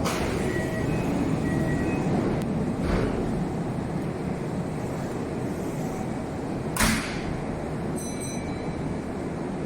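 Kintetsu Nara Line train running at a station: a steady low rumble with three sharp clacks.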